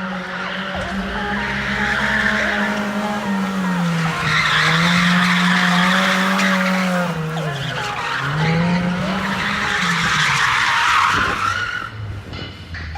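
A car drifting, its engine held at high revs while the tyres screech in three long bursts. The revs dip and climb again between the bursts, and it fades near the end.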